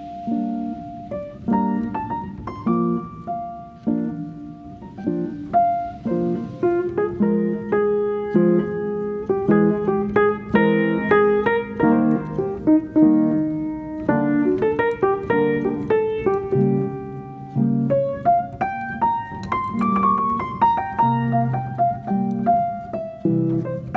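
Background piano music, a melody of separate struck notes over lower chords.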